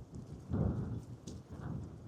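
Wind buffeting the microphone in irregular low rumbles, with a stronger gust about half a second in.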